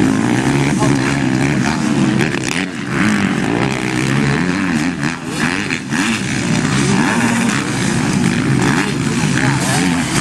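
Motocross bike engines revving, their pitch rising and falling over and over as they ride the track; more than one engine is heard at once.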